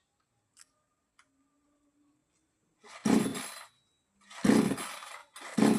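Starter cord of a small two-stroke mini chainsaw being yanked, with the engine cranking briefly with each pull but not catching, because the ignition switch is off. Three short rasping pulls come from about three seconds in, roughly one to one and a half seconds apart.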